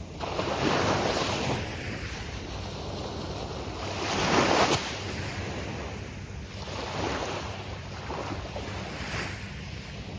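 Gulf of Mexico surf breaking on a beach: a steady wash of water with several waves crashing in turn, the loudest about four seconds in.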